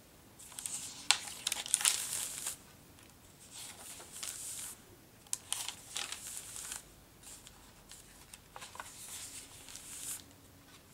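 Paper pages and tucked-in cards of a handmade junk journal rustling and crinkling as they are turned and handled, with a few sharp taps about a second in and again midway.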